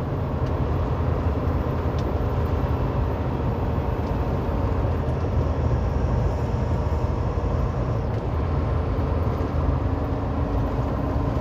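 Semi truck cruising on the highway, heard from inside the cab: a steady low rumble of engine and road noise, with a faint steady hum coming in near the end.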